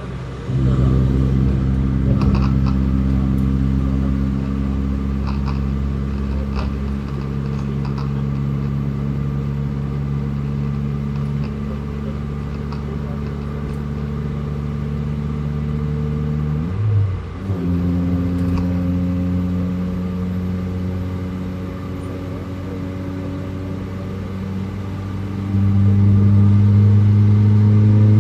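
Toyota Paseo's four-cylinder engine running under throttle, heard from inside the race car. About two-thirds of the way in, a gear change briefly breaks the note, which then settles lower. Near the end the engine grows clearly louder as the throttle opens.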